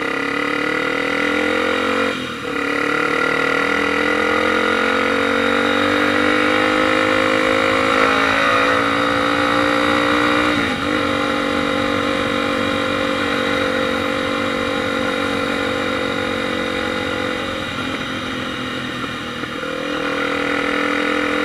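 Honda XR 250 Tornado motorcycle's single-cylinder engine pulling hard through the gears, its pitch climbing steadily with short breaks at gear changes about two and eleven seconds in, then running at a steady high speed.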